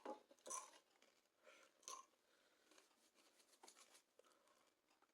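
Near silence with a few faint short clicks and crackles in the first two seconds and one more a little later.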